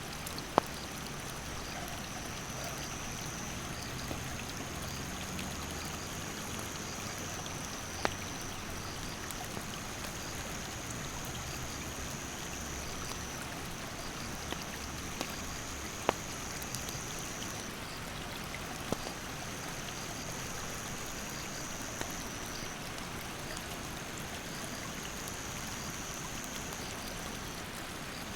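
A rushing stream, steady throughout, with a handful of sharp pops from a wood campfire, the loudest about half a second in and around eight and sixteen seconds in. An insect calls in long, high, even buzzes of a few seconds each, with short gaps between them.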